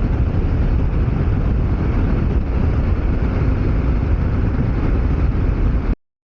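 Steady low rumble and road noise of a vehicle on the move, cutting off suddenly near the end.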